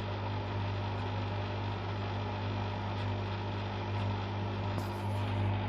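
Washing machine running steadily through its rinse and spin cycle, a constant low motor hum.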